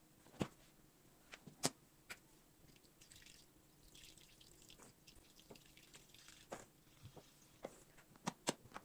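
A few sharp, separate light clicks and taps, irregularly spaced, with soft rustling between them around the middle.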